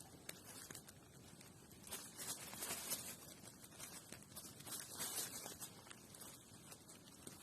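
Faint, irregular rustling and scuffing with no clear rhythm, the kind made by handling material or shifting about, swelling a little around two to three seconds in and again near five seconds.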